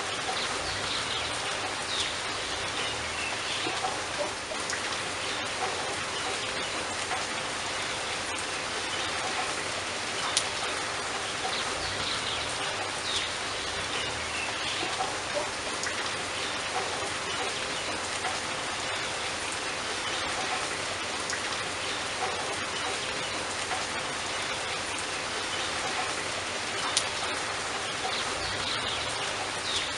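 Steady rain falling, with a few sharp drop hits standing out now and then.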